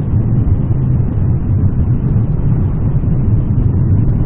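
Triumph Street Cup's parallel-twin engine running steadily at cruising speed through its stock exhausts, heard from the rider's seat along with wind noise.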